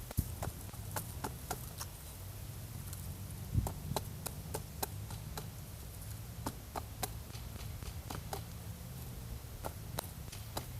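Irregular light knocks and clicks, several a second, over a low steady rumble.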